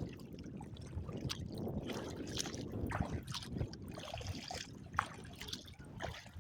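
Water lapping and splashing around a kayak on a choppy lake, with small irregular splashes and drips.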